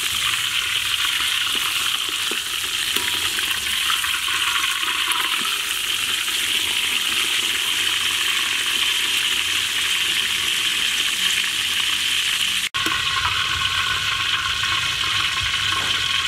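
Pork belly deep-frying in hot oil in a metal wok: a steady, loud sizzle that cuts out for an instant about two-thirds of the way through.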